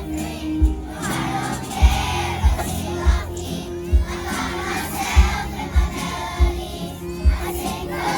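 Children's choir singing a pop ballad over a backing track with a steady kick-drum beat.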